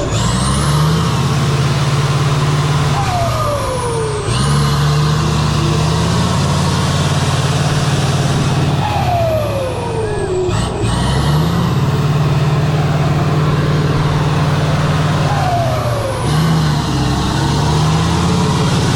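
Heavy off-road truck engine running loudly under load, its pitch stepping every few seconds, with a falling whistle-like glide heard several times.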